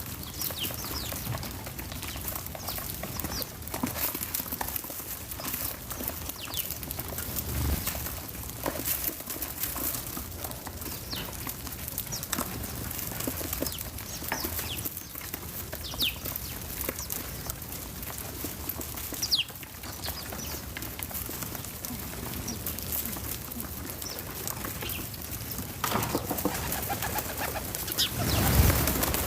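Backyard birds calling: scattered short, high chirps every few seconds over a steady background hiss, with a louder, busier stretch near the end.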